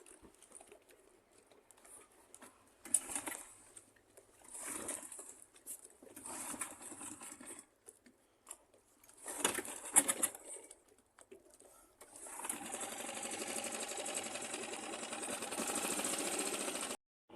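Small boat engine being started: a few short start attempts, then about twelve seconds in it catches and runs steadily.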